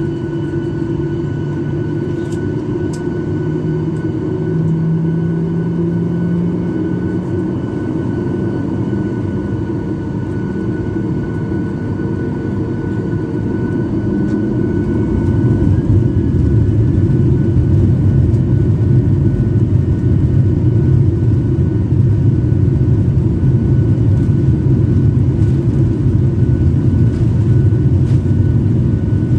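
Airliner cabin noise: a steady drone of jet engines and rushing air with a thin steady whine. The low drone swells and grows louder about halfway through.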